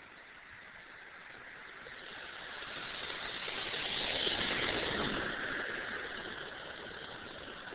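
A passing vehicle, its noise swelling to a peak about halfway through and then fading away.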